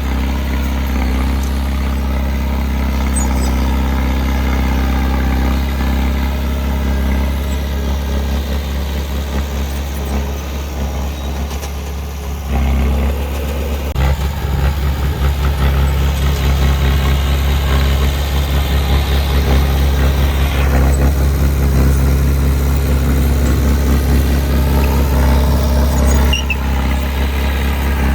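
Heavy-equipment diesel engine running steadily at low revs, its tone shifting abruptly about halfway through and getting louder.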